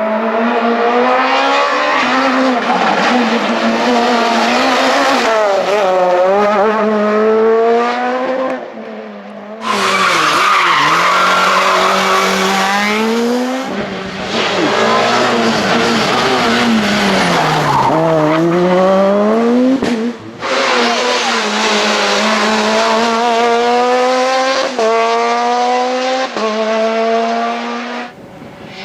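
Super 2000 rally cars' two-litre four-cylinder engines revving hard at full throttle, the pitch climbing through each gear and dropping sharply on lifts and downshifts, in several short passes joined by abrupt cuts.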